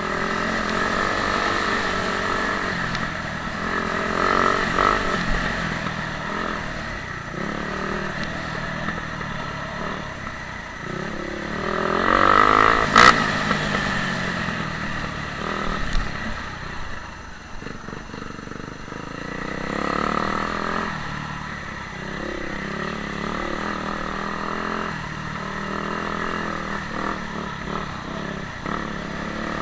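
Motocross bikes running on a dirt track, their engines revving up and easing off as they pass. The loudest pass comes near the middle, with a sharp click at its peak.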